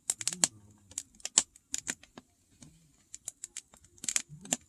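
Firewood crackling and popping in a campfire: irregular sharp snaps, several a second, with a louder pop about a second and a half in and again near the end.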